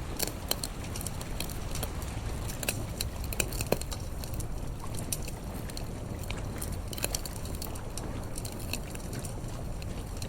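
Wood campfire crackling, with irregular sharp pops over a steady low rumble; one louder pop comes just before four seconds in.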